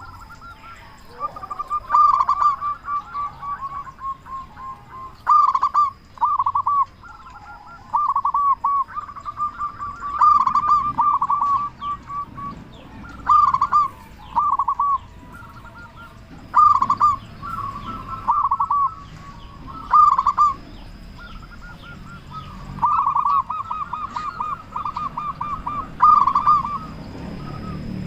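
Zebra dove (perkutut) cooing loudly and repeatedly: short rolling phrases of rapid coos on one pitch, about every two to three seconds.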